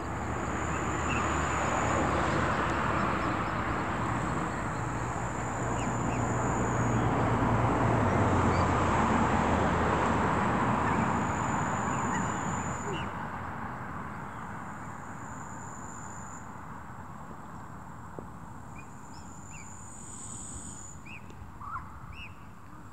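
A vehicle passing on a nearby road: a rushing tyre-and-engine noise with a low hum that swells over the first eight seconds or so and then slowly fades. Faint high, intermittent chirping runs through it, with a few short bird calls near the end.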